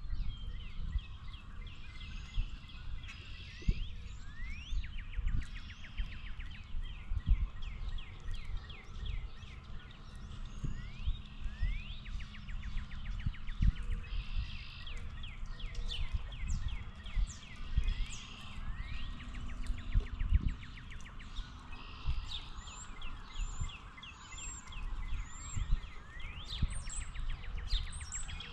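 Many small birds chirping and calling at once, short notes and quick rising calls overlapping throughout. Under them runs a low rumble with occasional brief thumps.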